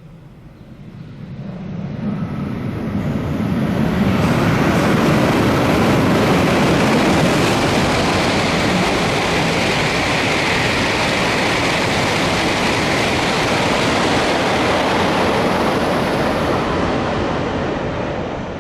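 Jōetsu Shinkansen bullet train passing through the station at speed without stopping: a rush of wheels and air that builds over about four seconds, holds loud and steady, then begins to die away near the end.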